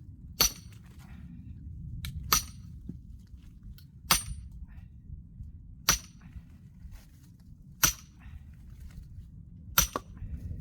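Axe blows on a knotty, still-green oak log: six sharp strikes, one about every two seconds, each with a brief ring.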